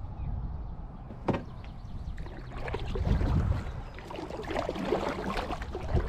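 Kayak paddling: water splashing and dripping off the paddle blades, with one sharp knock about a second in.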